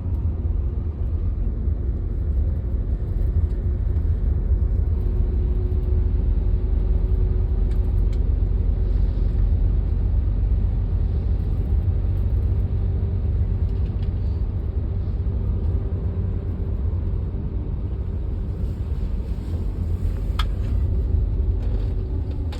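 Blizzard wind buffeting the microphone: a loud, steady, deep rumble with a few small ticks near the end.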